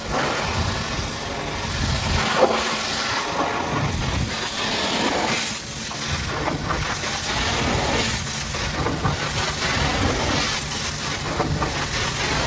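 Pressure washer spraying a high-pressure water jet against a muddy truck, a steady loud hiss that swells and eases as the jet moves over the surface.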